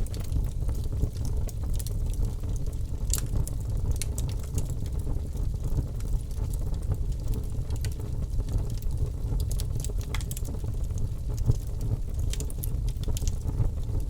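Birch logs burning in a fireplace: a steady low rush of flame with many small, sharp crackles and pops scattered throughout.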